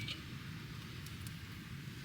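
Steady rain falling, an even hiss, with a few short sharp ticks about a second in.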